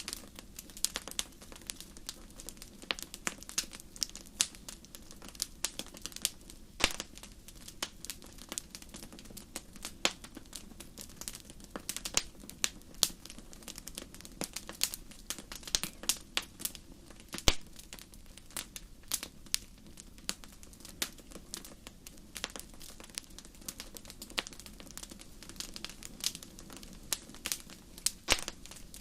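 Wood campfire crackling, with irregular sharp pops and snaps several times a second and one loudest snap about seventeen seconds in.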